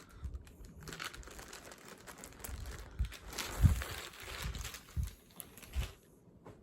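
Costume packaging crinkling and rustling as it is handled, with several soft bumps, the loudest about three and a half seconds in.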